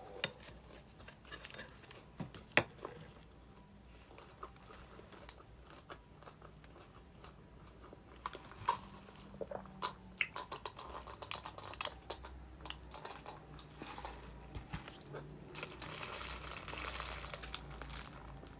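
A person eating fast food close to the microphone: chewing and biting with scattered crisp crunches, and denser crinkling toward the end.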